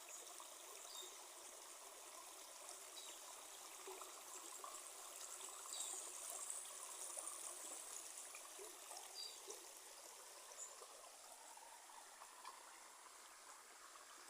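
Steady faint rush of running water, like a small stream, with a few faint high chirps over it.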